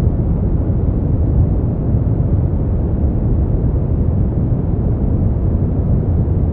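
Steady sleep-aid white noise, deep and dark in tone: an even rushing hiss with most of its weight low down and no high hiss.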